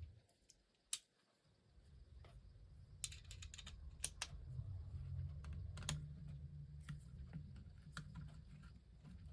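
Scattered light clicks and taps of a socket ratchet and small metal parts as a motor-mount nut is worked on: a sharp click about a second in, a quick run of clicks about three seconds in, then single clicks.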